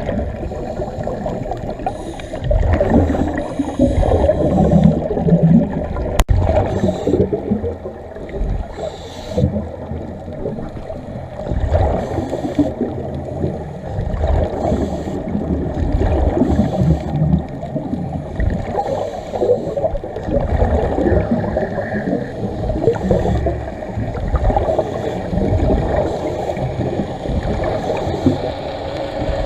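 Muffled water sound with irregular gurgling, most of it deep and dull.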